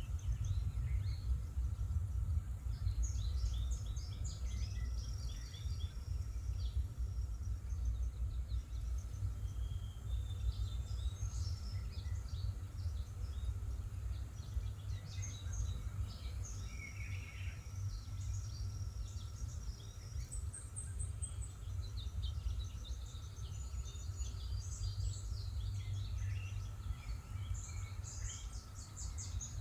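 Outdoor ambience of songbirds chirping and calling on and off, over a steady low rumble.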